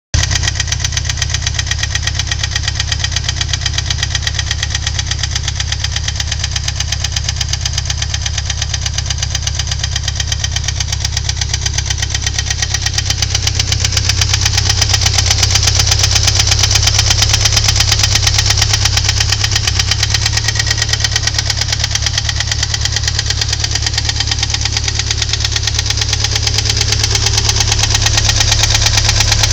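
Ford Thunderbird Turbo Coupe's 2.3-litre turbocharged four-cylinder engine running steadily with a fast, even knocking in time with the engine, which the owner suspects is a valve.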